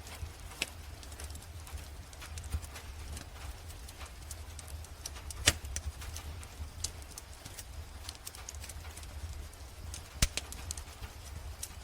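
Wood fire crackling in a fireplace, with irregular snaps and a few sharp loud pops, over a low rumble and a soft steady hiss of rain.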